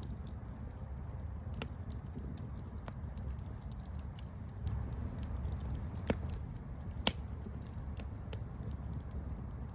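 Campfire burning: a low rumble of flame under scattered sharp crackles and pops, the loudest pop about seven seconds in.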